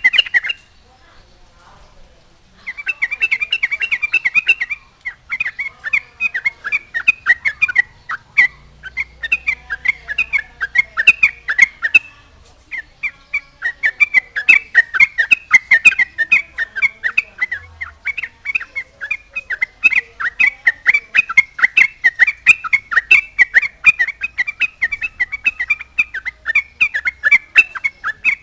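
Yellow-vented bulbul (trucukan) singing vigorously: fast, chattering runs of short notes with barely a break, after a pause of about two seconds near the start.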